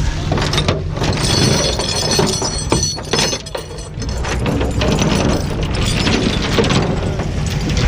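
Irregular clinking, rattling and scraping of metal and broken crash debris, over the steady low rumble of an idling truck engine.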